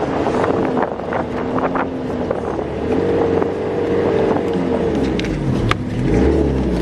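Bus driving, heard from inside: engine running with its pitch drifting up and down, over road noise and short rattles.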